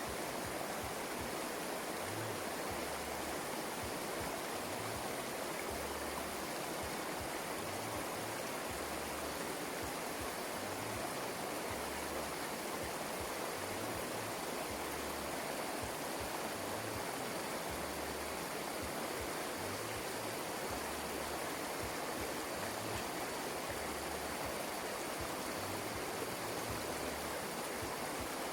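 Rain-swollen water rushing steadily after heavy rain.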